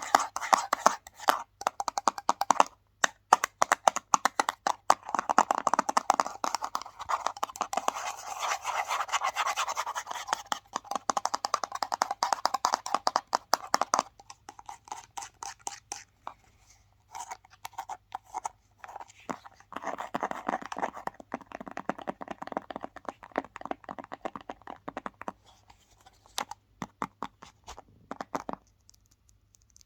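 Fast, hard scratching and tapping on an object's surface, a rapid run of strokes. It thins out to scattered taps about halfway through, picks up again, then stops shortly before the end.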